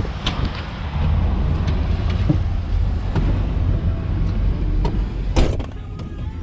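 Truck engine running with a steady low rumble, broken by several sharp clicks and one loud knock about five and a half seconds in.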